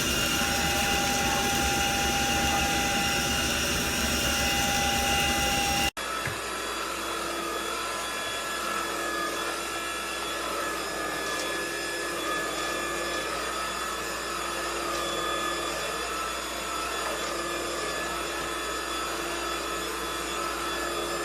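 A cordless stick vacuum cleaner running steadily with a motor whine. About six seconds in the sound cuts abruptly and resumes a little quieter, with a different pitch.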